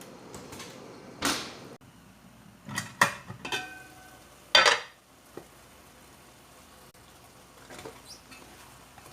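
Metal kitchenware clattering: several clanks and clinks of pots, dishes and utensils, one briefly ringing about three and a half seconds in, with the loudest clatter about four and a half seconds in.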